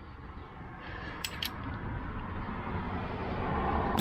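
A hiss of fluid at a riding mower's carburetor, building up and growing louder over about three seconds, with a couple of light clicks about a second in.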